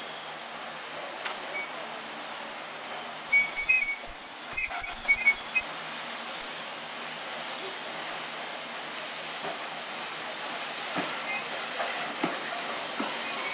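Train wheels squealing against the rails: a high, thin flange squeal that comes and goes in repeated bursts, loudest a few seconds in, with faint wheel clicks near the end.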